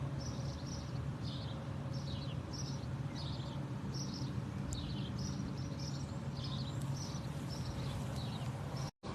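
Birds chirping outdoors, short high calls repeating two or three times a second, over a steady low hum. The sound drops out for a moment near the end.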